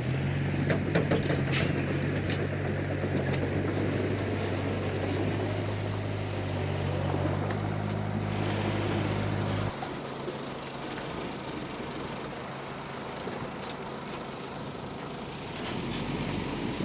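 Komatsu D31P crawler bulldozer's diesel engine running under load with a steady drone, with a short high squeak about a second and a half in. About ten seconds in the drone drops away to a lower, quieter running sound.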